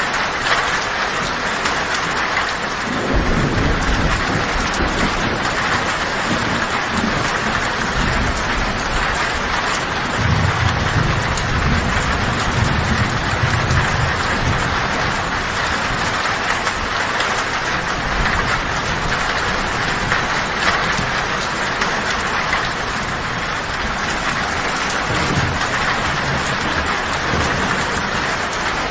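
Heavy rain falling steadily on a tin roof. Low thunder rumbles in about three seconds in, is heaviest from about ten to fourteen seconds, and rolls again briefly near the end.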